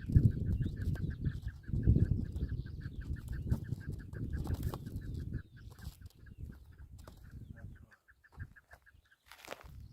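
A chukar partridge calling: a fast, even run of clucking notes, about eight a second, that stops near the end. A loud low rumble sits under the first half.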